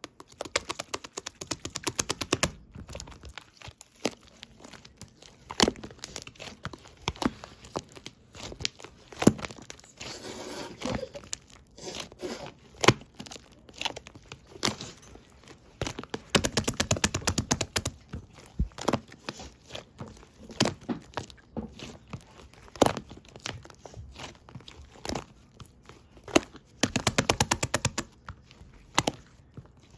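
Clear slime full of trapped air bubbles being squeezed and poked. It makes rapid runs of wet clicks and pops, broken by a few sharper single cracks.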